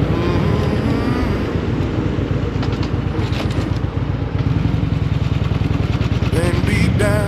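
Harley-Davidson Road King's V-twin engine running steadily while riding, with a rhythmic low pulse. A singing voice with vibrato comes in over it near the end.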